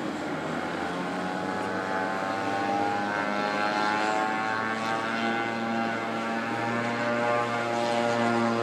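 Engine of a radio-controlled scale model airplane running, a steady droning note whose pitch rises a little over the first couple of seconds and then holds.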